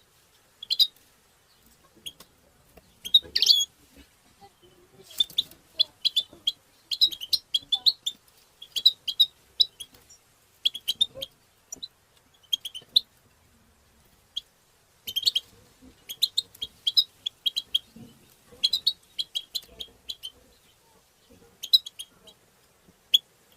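European goldfinch singing: phrases of rapid, high, twittering chirps and trills, separated by short pauses.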